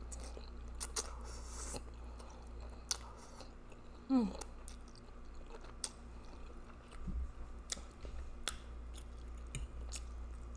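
Close-miked chewing of a mouthful of spaghetti with meat sauce: wet smacking and many short mouth clicks. A brief falling vocal sound comes about four seconds in.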